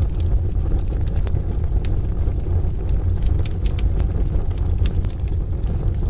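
Wood fire in a stove crackling, with sharp, irregular pops and snaps over a steady deep rumble.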